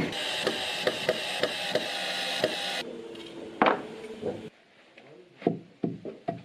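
Hammer blows on wood, a quick regular run of knocks at first over a steady hum, then irregular, louder single strikes.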